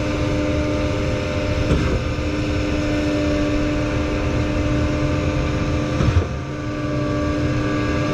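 Diesel engine of a concrete pump truck running steadily under load, with a sharp knock about two seconds in and another about six seconds in.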